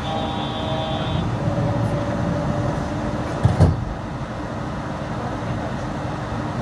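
Yurikamome rubber-tyred automated train running, a steady low rumble with several steady tones over it. A brief knock comes about three and a half seconds in.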